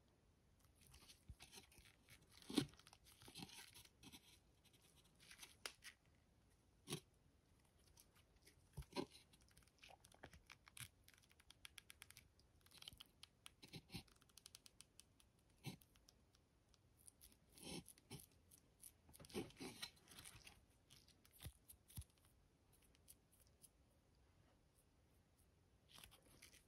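Scattered handling noises at low level: packaging rustled and torn open, with sharp clicks and knocks between the rustles. The loudest click comes about two and a half seconds in.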